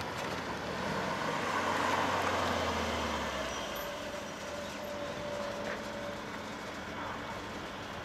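Vehicle engine and road noise, swelling about two seconds in and easing off, with a low engine note that stops about halfway through.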